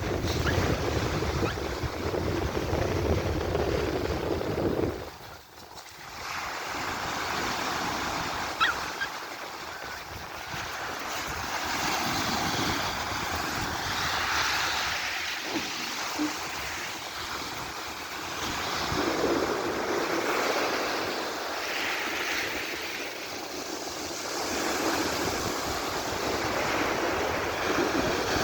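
Rough sea surf breaking on a beach, a steady wash of noise that swells and fades every few seconds. Wind rumbles on the microphone, heaviest in the first five seconds.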